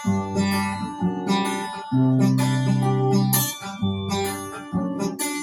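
Acoustic guitar strumming chords in an instrumental passage of a song, changing chord every second or so.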